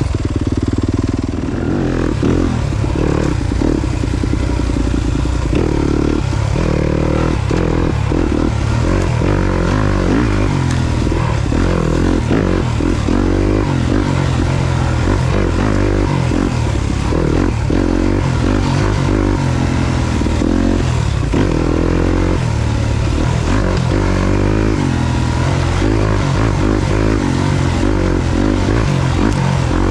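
Yamaha YZ250FX 250 cc four-stroke single-cylinder dirt bike engine running under load, its revs rising and falling again and again with the throttle.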